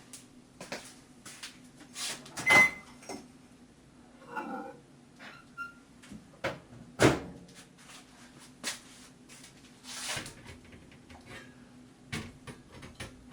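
Kitchen handling sounds as a microwave oven's door is opened and a mug is taken out: a string of clicks and knocks, the loudest about two and a half seconds in and again at about seven seconds. A faint steady hum runs underneath.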